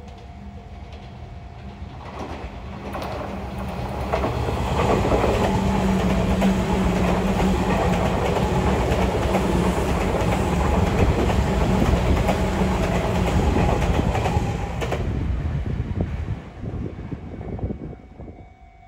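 Electric commuter train passing by: it swells over the first few seconds, stays loud for about ten seconds as the cars go past, and fades away near the end.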